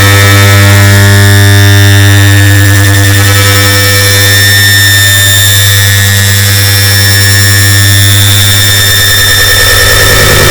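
Air conditioner start-up sound stacked on itself many times over into one very loud, steady deep hum with many overtones and a dense hiss. Near the end the hum's pattern shifts and a new, higher tone comes in.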